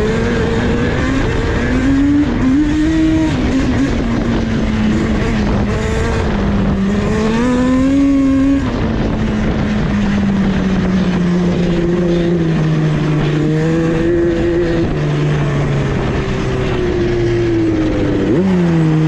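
Yamaha Banshee's two-stroke parallel-twin engine running through a MOTOFAST 2-into-1 exhaust, revving up and down with the throttle, its pitch climbing and dropping again and again, several times falling in steps, over a steady low rumble.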